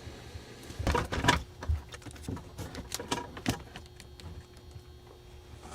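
Scattered clicks and knocks, as of tools and parts being handled in a truck cab, with a cluster of louder knocks about a second in.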